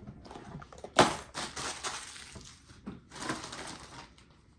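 Plastic packaging crinkling and rustling as it is handled and opened, with a sharp crackle about a second in and another spell of crinkling around three seconds in.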